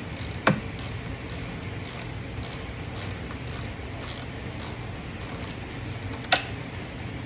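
Hand ratchet wrench clicking in regular back-strokes, about two a second, while loosening a fastener on the fuel tank mounting, with two sharp metallic knocks, one about half a second in and one near the end, over a steady low hum.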